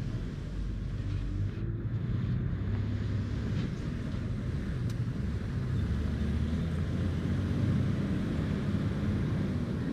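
Motor vehicle on the move: a steady low engine and road rumble.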